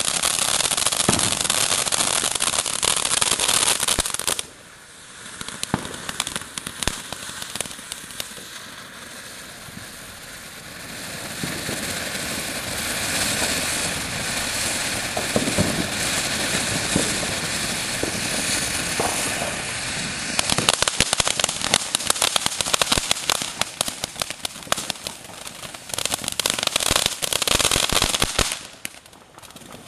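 Ground fountain fireworks spraying sparks, with a loud steady hiss and crackle. The sound drops off about four seconds in, builds again, and turns into dense crackling from about twenty seconds in until it falls away near the end.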